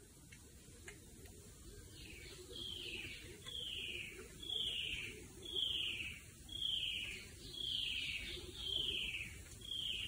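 Rainforest bird calling a series of notes, each sliding down in pitch, repeated about once a second from about two seconds in.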